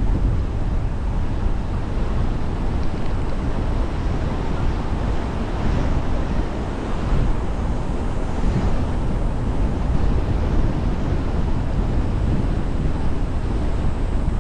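Steady wind rumble on the microphone mixed with tyre and road noise from a car driving along.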